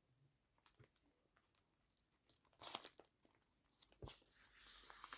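Faint rustling and crinkling of paper and washi tape being handled on a craft desk, with a brief crinkle about two and a half seconds in, a soft tap near four seconds, and a longer tearing rustle near the end.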